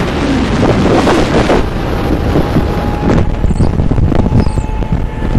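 Sandstorm wind buffeting the microphone in uneven gusts, a dense rumble. A faint steady tone sounds under it from about two seconds in.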